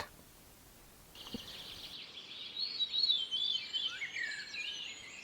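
Birds chirping: many quick, high chirps and twitters overlapping, starting after about a second of silence.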